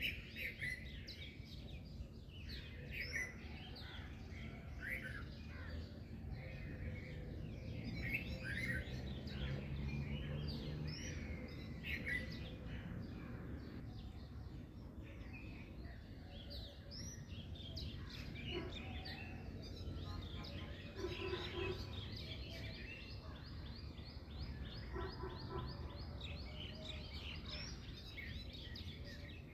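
Several small songbirds chirping and calling in many short, quick notes, over a steady low background rumble.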